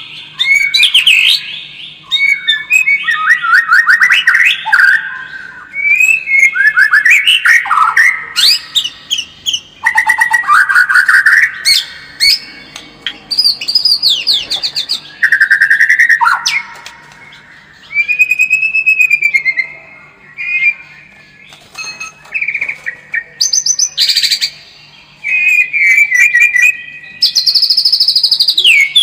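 White-rumped shama (murai batu) singing a loud, varied song of fast trills, whistled glides and chattering note series, phrase after phrase with short pauses between them. This is lure song of the kind played to a captive shama to provoke it into fighting form.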